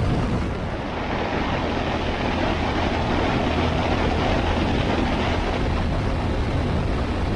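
Motorcycle riding at highway speed: a steady rush of wind over a low engine rumble.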